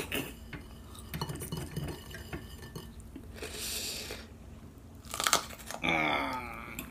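Chewing of noodles, with a fork clicking against a plate now and then. Near the end comes a short strained vocal sound, a groan from the heat of the chilli.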